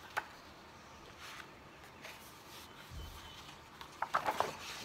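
Quiet room tone with faint handling noise: a soft click at the start, a low thump about three seconds in, and a brief cluster of clicks and rustles near the end.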